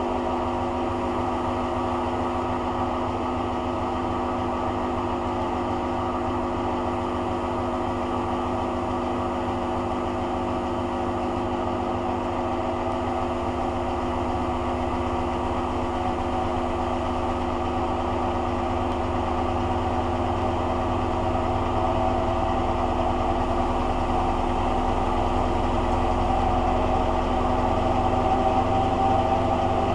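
Hoover Dynamic DYN11146PG washing machine running in its rinse cycle: a steady motor hum with the drum turning, growing a little louder in the last third.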